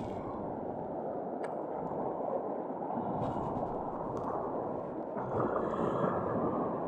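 Sea waves washing and rushing: a steady noise that swells a little near the end.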